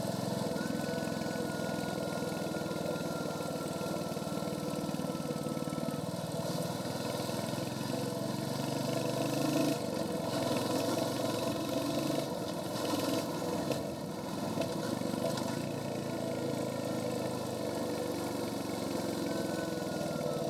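Royal Enfield Hunter 350's single-cylinder engine running through its stock exhaust under way, heard from the rider's seat. The engine note is steady, with throttle changes and louder moments in the middle.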